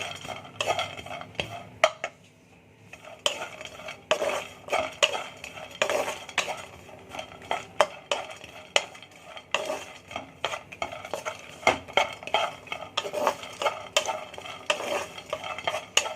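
Cashews dry-roasting in a kadai, a spatula stirring and scraping them around the pan in repeated, irregular strokes.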